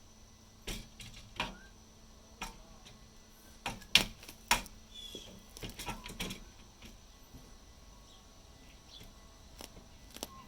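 Irregular sharp clicks and knocks, about a dozen, bunched in the first two thirds with the loudest pair about four seconds in, then quieter, with faint bird chirps in the background.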